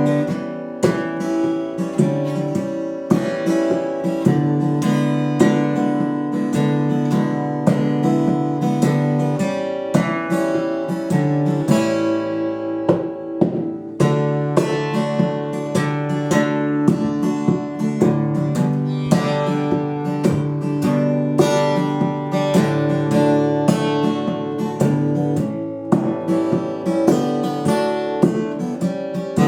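Acoustic guitar strummed in a steady rhythm of chords, an instrumental passage of a song with no singing.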